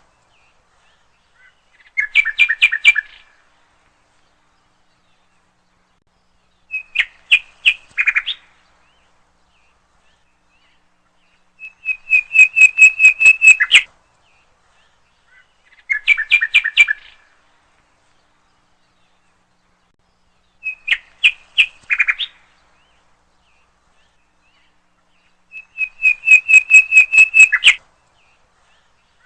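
A songbird singing short phrases of rapid repeated whistled notes, six phrases a few seconds apart.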